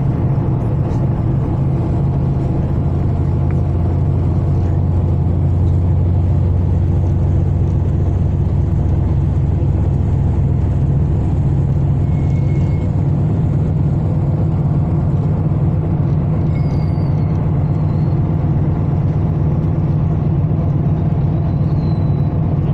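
Ferry's engines running steadily: a loud, even, low drone that does not change.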